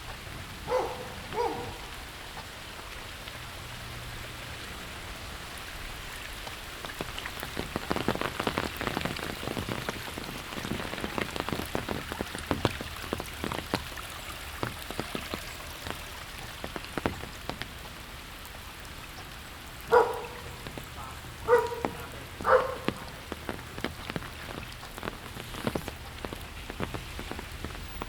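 Steady rain with a dense patter of drops, heaviest through the middle. A dog barks twice near the start and three more times about two-thirds of the way through; the barks are the loudest sounds.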